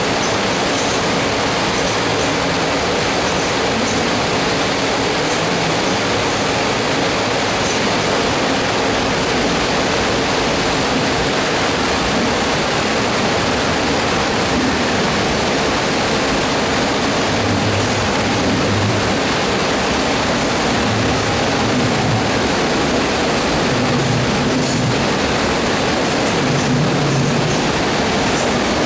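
Passenger train running along a station platform, a steady, even rumble of wheels and running gear.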